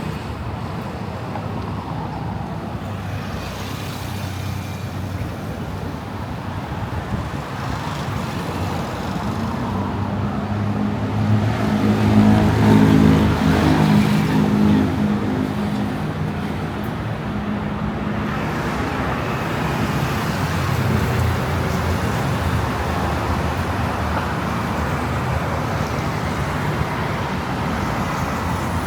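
Road traffic running past, a steady hiss of tyres and engines. About ten seconds in, one vehicle's engine hum grows louder and fades again a few seconds later as it passes close by.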